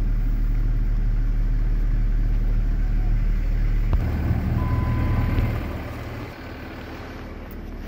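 A vehicle's engine idling, heard from inside the cab as a steady low hum. About four seconds in there is a sharp click, and the hum grows quieter a second and a half later.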